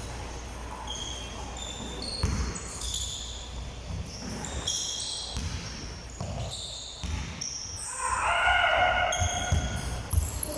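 Basketball practice in a gym: balls thudding on the hardwood court and sneakers squeaking in short high chirps, with a voice calling out briefly about eight seconds in, the loudest moment.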